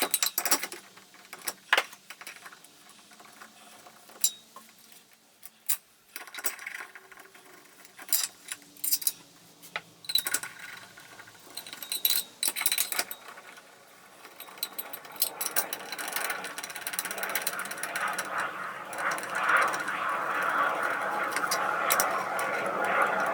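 Metal tools clicking, ratcheting and clanking while the old air compressor's cylinder parts are unbolted. In the second half a steady whirring noise builds up and grows louder.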